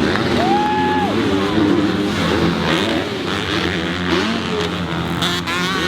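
Several motocross dirt bikes racing on the track, their engines revving up and down as they accelerate and shift, with one bike's pitch rising sharply about half a second in.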